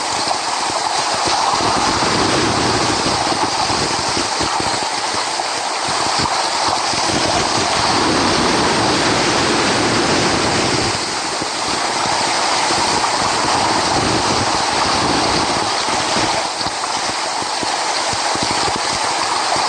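Ocean surf: a steady hiss of waves breaking and washing in, easing briefly a couple of times.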